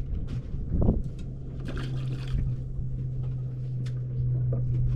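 Handling noises on a small boat: knocks and clicks, then a brief splash about two seconds in as a small bream is dropped back into the sea. A steady low hum runs underneath.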